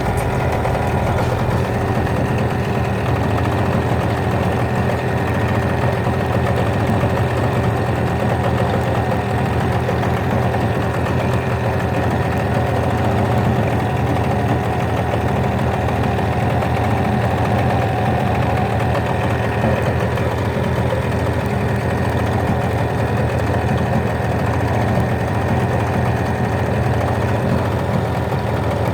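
Hidea 9.9 outboard motor idling steadily.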